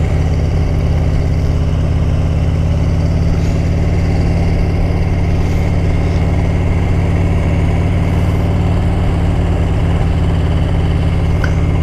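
Motorcycle engine running steadily at low road speed, with no rise or fall in revs.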